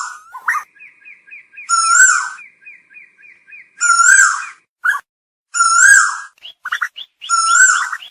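Asian koel calling: a loud whistled note that rises and dips, repeated four times about two seconds apart. Between the first calls runs a fainter rapid series of short notes.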